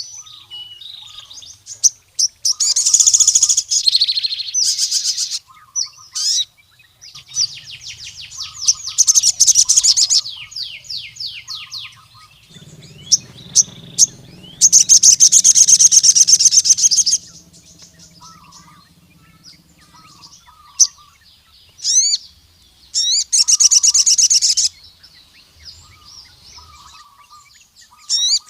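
Male crimson sunbird (sogon) singing in loud bursts of fast, high-pitched trills, each lasting one to three seconds, with softer chirps between them. It is a strong territorial song of the kind that calls out rival males.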